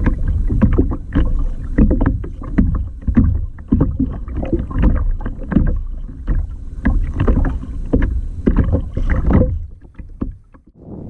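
Water splashing and slapping around a kayak at sea, with irregular knocks and bumps on the hull, dying away about nine and a half seconds in.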